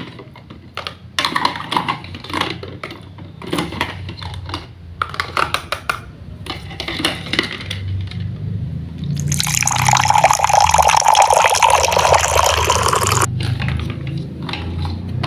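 Short crisp clicks and crunches, then liquid pouring for about four seconds before stopping abruptly.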